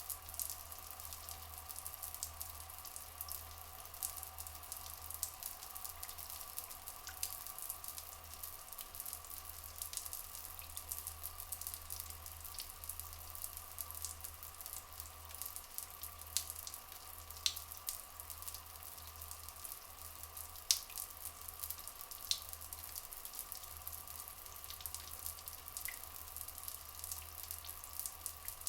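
Rainforest ambience: a dense, steady crackle of dripping water, with a steady low rumble underneath. A few louder single drips stand out in the second half.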